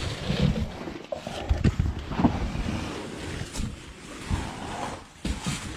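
A person squeezing through a tight cave crawl with a backpack: irregular scrapes, bumps and shuffling of body and pack against rock.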